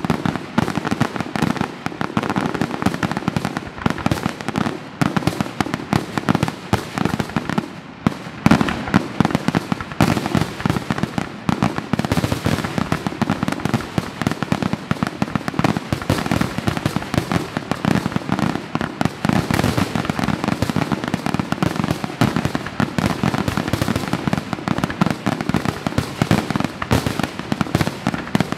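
Aerial fireworks shells bursting in rapid, unbroken succession: a dense barrage of bangs, many each second.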